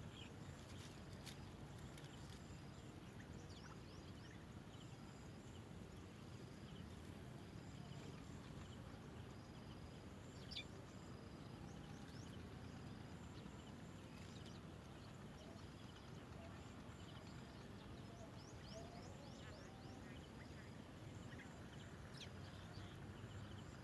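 Faint outdoor background hiss with scattered faint, short, high-pitched bird chirps, one a little louder about halfway through.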